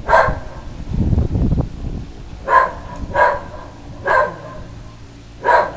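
Whippet barking at a blimp overhead: five single sharp barks, one at the start and four spread over the last three seconds. About a second in there is also a brief low rumbling noise.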